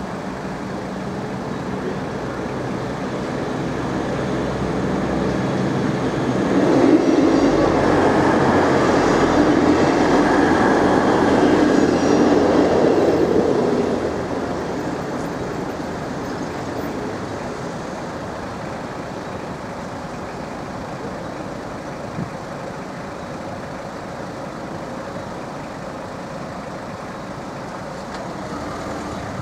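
Intercity passenger train passing over a level crossing. Its running noise builds over several seconds, is loudest for about seven seconds, then fades away.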